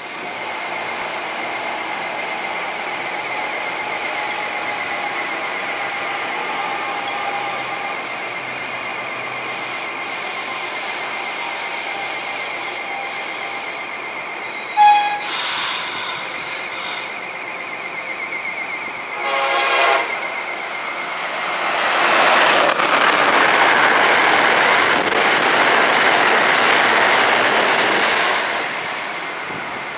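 Electric trains running through a station: a steady high-pitched whine with a low hum for the first two-thirds, a sharp clank about halfway, and a short horn note about two-thirds in. Then an Amtrak train passes close by at speed with a loud rushing roar that eases off near the end.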